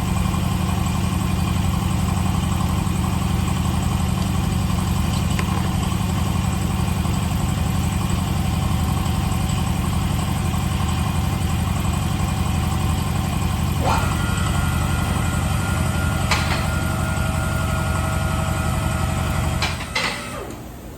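Infiniti QX80's 5.6 L V8 running at a steady idle, then shut off near the end. A fainter steady higher tone joins about two-thirds of the way through.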